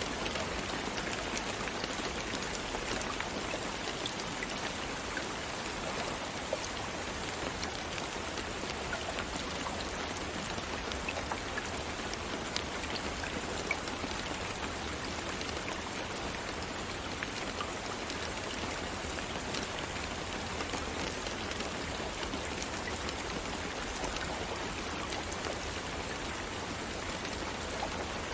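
Steady rain falling, with dense pattering of individual drops over an even hiss.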